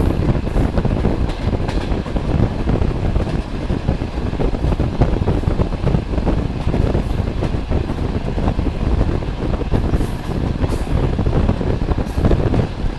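Passenger train running at speed, heard from an open carriage window: a steady rumble of wheels on rails mixed with rushing air, and a few faint brief high clicks.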